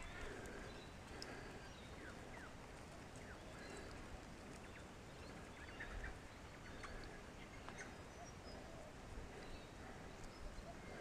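Quiet bush ambience with faint, scattered bird chirps.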